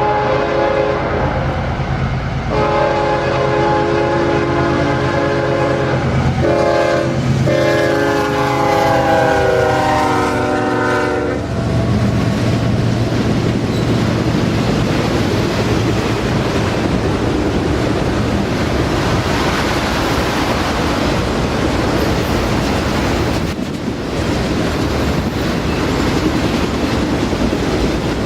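Freight diesel locomotive's multi-chime air horn sounding in several blasts for about the first eleven seconds, its pitch dropping slightly as it passes. Then the CSX locomotives and a long autorack freight train rumble and clatter past on the rails.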